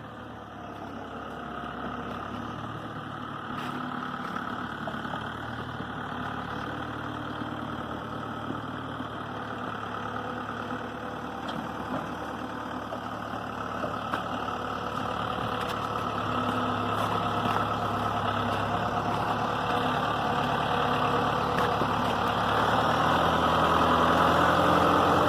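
New Holland cab tractor's diesel engine running steadily, growing gradually louder throughout.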